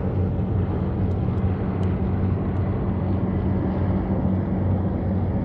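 A steady low engine drone with a hum, over a rushing noise.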